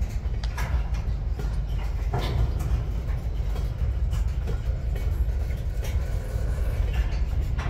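Empty covered hopper cars of a freight train rolling past, a steady low rumble of steel wheels on rail with a few sharp clicks spread through it.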